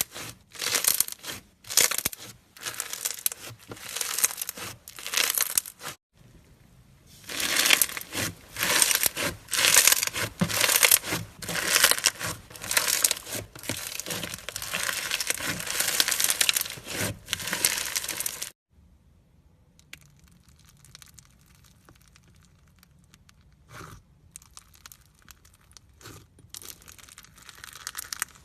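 Foam-bead slime (floam) being squeezed and kneaded by hand, giving a dense crackling and popping in repeated bursts. About two-thirds of the way through it cuts off suddenly, and fainter, sparser crackles follow.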